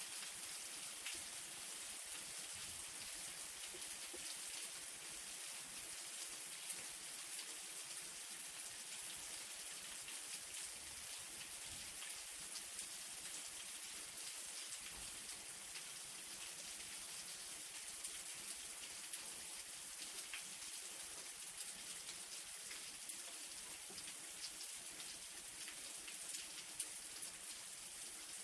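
Light rain falling steadily: an even hiss with many small scattered drop ticks.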